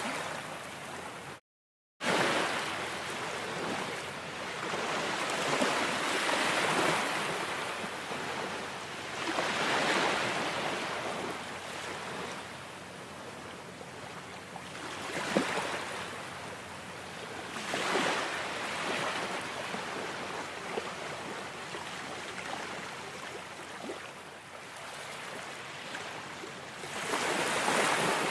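Ocean surf: waves breaking and washing in, the rush swelling and easing every few seconds. About a second and a half in, the sound cuts out completely for about half a second, then resumes.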